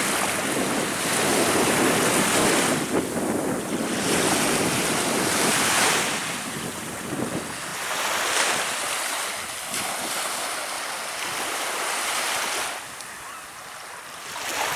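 Baltic Sea surf: small waves breaking and washing on the shore in repeated surges that swell and ebb, with wind buffeting the microphone. The wash drops away near the end.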